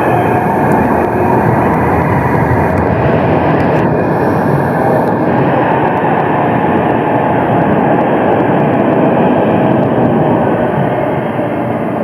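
Tram running along the rails: a loud, steady rolling noise with a faint whine in it, easing off slightly near the end.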